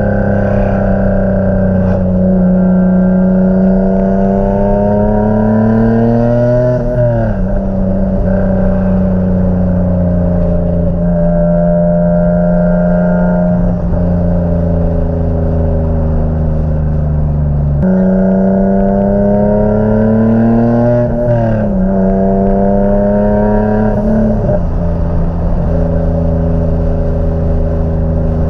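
Single-turbo Infiniti G37's V6 engine heard from inside the cabin, accelerating through the gears. The engine note climbs in pitch over several seconds and drops sharply at each upshift, twice clearly, about seven seconds in and again past twenty, with steady cruising between.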